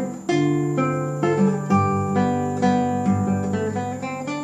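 Classical guitar fingerpicked in three-four time: a line of plucked notes, about two a second, over a bass note held ringing beneath them, dying away near the end.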